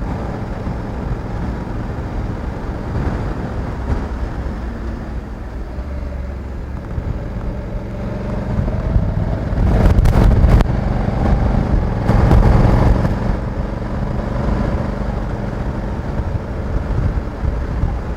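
Honda Africa Twin 1100 DCT parallel-twin engine running steadily while the motorcycle is ridden, with two louder stretches of engine and rushing noise, about ten and twelve seconds in.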